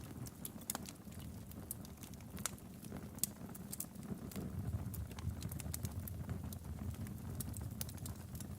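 Wood fire in a fireplace burning steadily with a low rumble of flames and irregular sharp crackles and pops from the burning logs.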